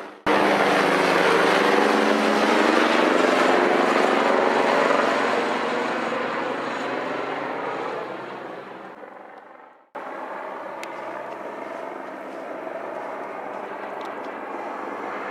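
Airbus H135 twin-turbine helicopter flying past: loud at first with a steady low hum, then fading as it moves away. Near the middle the sound cuts off abruptly and resumes at once as a steadier, quieter running sound.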